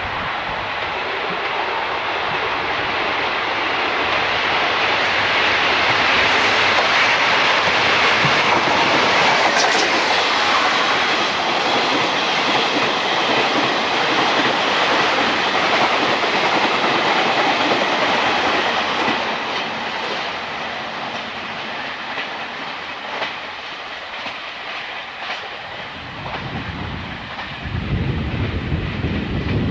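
A train passing along the line, its wheels clacking over the rail joints. The rumble builds over the first several seconds, holds, then fades with a few last clacks. Near the end a new, deeper rumble starts.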